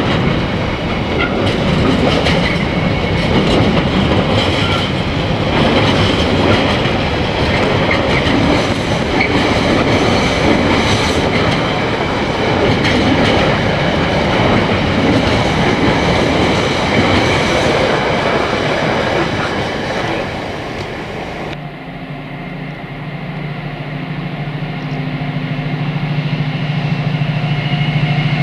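A train running past with its wheels clattering over the rail joints. About three-quarters of the way through, a cut brings in a diesel locomotive's engine running with a steady hum that grows louder as it approaches.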